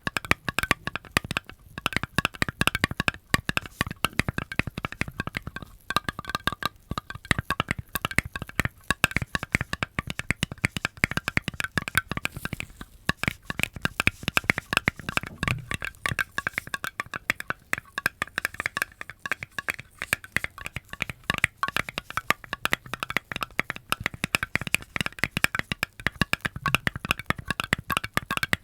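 Close-miked ASMR trigger sounds: a dense, continuous run of rapid crackling clicks and taps, many a second.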